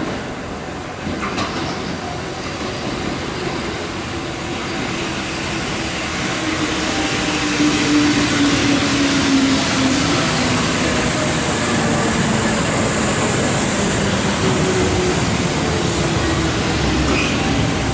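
Kintetsu red-and-white commuter electric train pulling into the station: its wheels run on the rails and the noise grows louder as the cars come past. A motor whine falls in pitch as the train slows to a stop.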